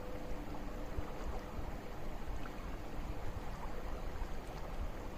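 River water flowing steadily, with a low rumble underneath.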